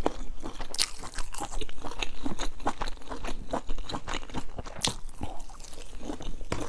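A person chewing and biting into a sausage on a skewer, recorded close up: a quick run of short, sharp, wet mouth clicks.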